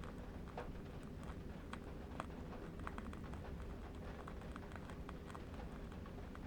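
Burning candle wick crackling in soft, irregular clicks, several a second, over a low, steady rumble of distant wind.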